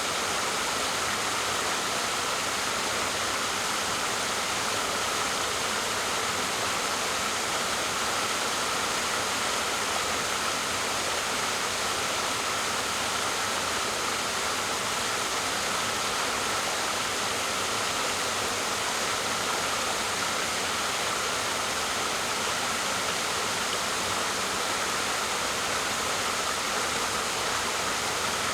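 Waterfall: water falling and splashing in a steady, even rush, with most of its sound in the middle and high range and little low rumble.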